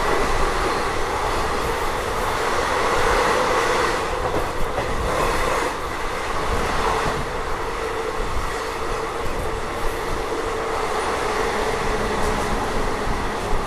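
Rumble and wheel noise of a moving express train as an oncoming express passes on the adjacent track, heard from aboard. It is loud and steady throughout, with a faint steady whine.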